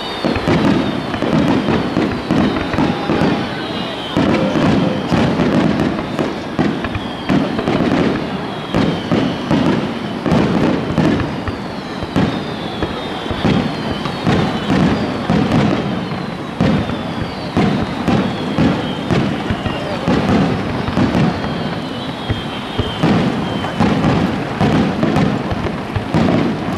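Japanese starmine fireworks barrage: shells bursting in rapid, overlapping succession, with crackle and repeated falling whistles.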